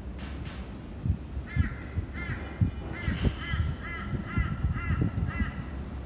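A bird calling, a run of about eight short repeated calls that starts about a second and a half in, with low thuds underneath.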